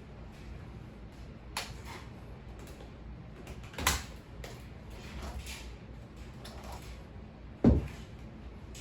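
Three separate knocks of household objects being handled: a light click about a second and a half in, a louder clack near the middle, and the loudest, a deep thud, near the end, over a faint steady background.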